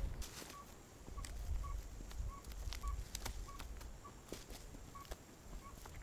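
A bird giving short, evenly pitched chirps about twice a second, over scattered sharp knocks and clicks.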